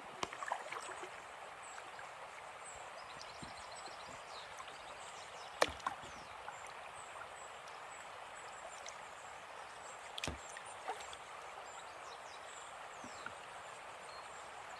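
Kayak paddle strokes in calm river water, a steady soft splash and drip, with a few sharp knocks about a second in, near six seconds and near ten seconds. Small birds chirp faintly in the background.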